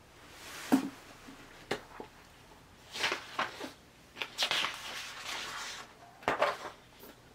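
Intermittent rustling with a few light knocks and clicks, the sound of things being handled close by.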